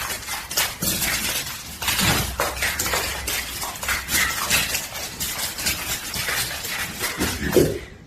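A run of clattering and crashing, many sharp knocks of hard objects in quick irregular succession.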